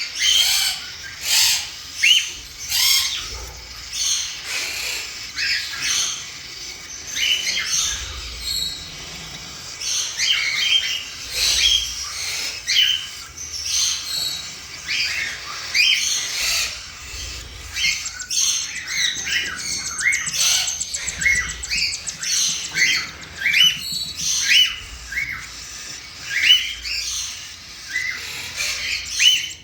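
Cockatiel chicks giving rapid, repeated high chirps and short rising squeaks: food-begging calls while their mother feeds them.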